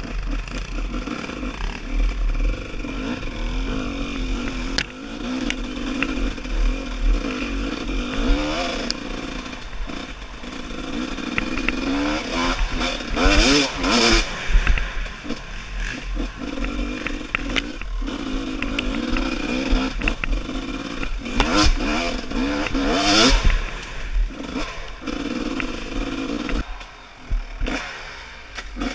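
Off-road trail motorcycle engine running, revving up and easing off several times, with its loudest bursts of throttle about halfway through and again near the end.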